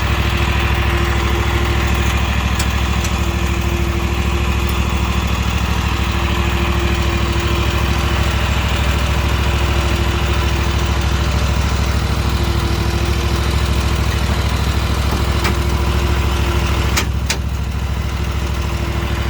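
A motor engine idling steadily, with an even, unchanging low hum and a few faint clicks.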